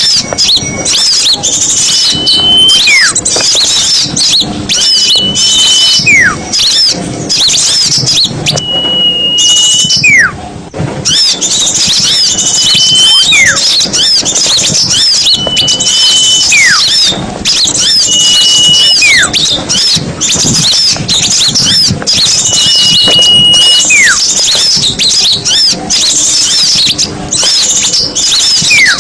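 Small-bird lure recording: a dense, noisy chatter of many small songbirds chirping and trilling. Through it, a clear whistle comes about every three seconds, a held high note followed by a quick falling glide.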